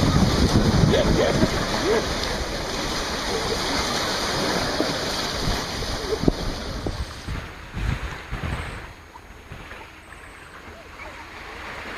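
Sea water washing and splashing: a loud, even rush of surf for about the first seven seconds, then much quieter. Faint voices near the start.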